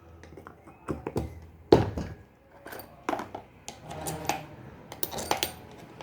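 Small metal parts and tools being handled, making irregular clinks and knocks, some with a brief metallic ring; the loudest is a sharp knock a little under two seconds in.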